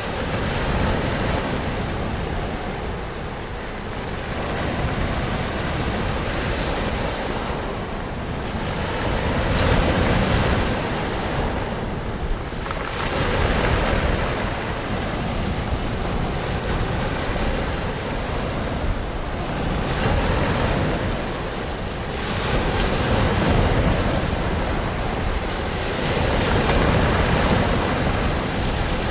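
Ocean surf: waves breaking and washing in as a continuous rush that swells and eases every few seconds.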